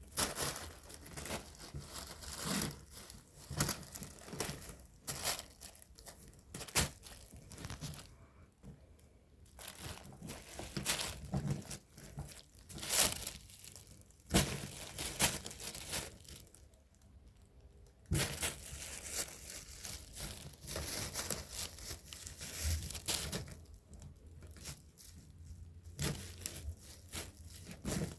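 Irregular rustling, crinkling and scratchy tearing noises in bursts, with a few brief pauses.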